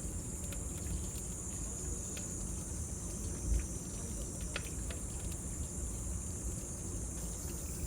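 Cicadas droning steadily in a high, unbroken band, over the scattered crackles of a wood bonfire and a low rumble, with one soft low thump about three and a half seconds in.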